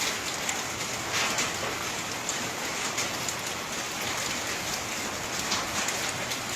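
Steady rain falling, with many separate drops pattering on surfaces; the rain is carrying volcanic ash and sand as mud rain.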